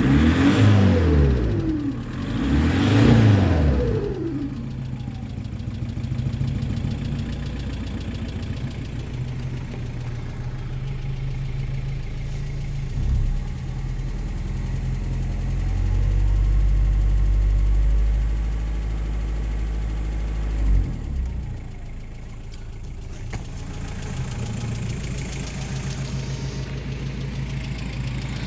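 Volkswagen Passat 1.9 TDI four-cylinder diesel engine revved twice, its pitch rising and falling each time, then settling to a steady idle. A deeper steady drone sits under the idle for several seconds in the middle.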